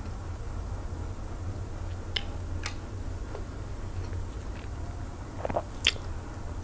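Close-miked eating sounds: a few short wet smacks and clicks of chewing and lips, the loudest about six seconds in as food goes into the mouth, over a steady low hum.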